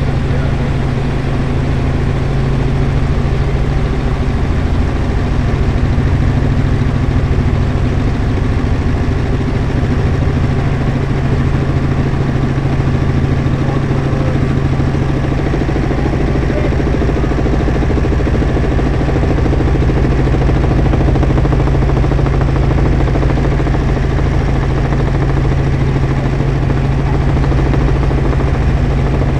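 Helicopter in flight: a steady, loud engine and rotor drone with a strong low hum that does not change.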